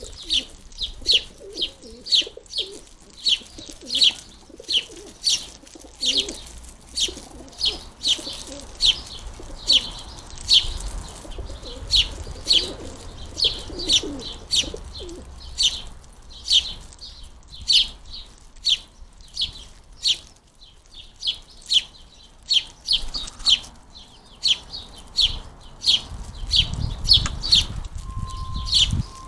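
House sparrows chirping over and over, about two short high chirps a second without a break, the persistent calling of fledglings begging to be fed.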